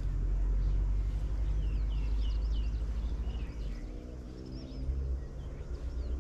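Small birds chirping in short, quick calls that glide up and down in pitch, over a steady low rumble. A low hum with several pitches comes in about halfway.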